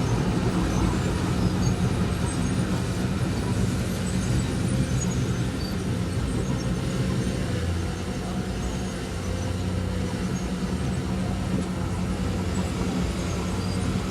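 Diesel engine of heavy earthmoving machinery running steadily, a low continuous hum.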